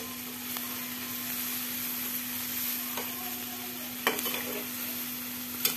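Squid, petai and chillies sizzling in a stainless steel pan as they are stir-fried with a metal slotted spatula. The spatula clacks against the pan about four seconds in and again near the end, over a steady low hum.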